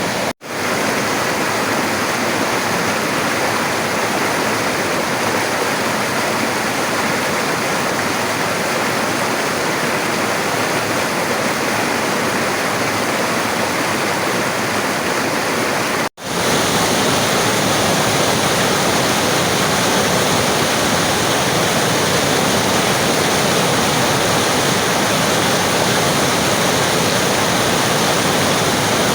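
Rushing river water, a steady, full wash of flowing water. It cuts out for an instant twice, about half a second in and about sixteen seconds in, and swells straight back each time.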